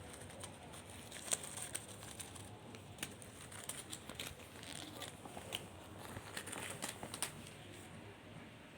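A kitten at play making light rustling and crinkling noises, with many irregular sharp clicks and crackles that thin out near the end.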